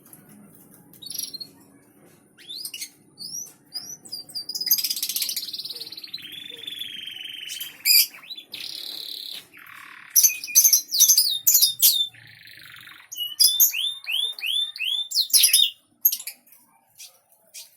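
A small songbird singing a loud, varied song: quick trills, buzzy held phrases and runs of rapid down-slurred notes. It breaks off shortly before the end, leaving a few faint clicks.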